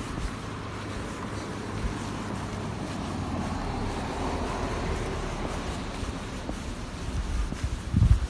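A vehicle passing by: a steady hum of road noise that swells towards the middle and fades away.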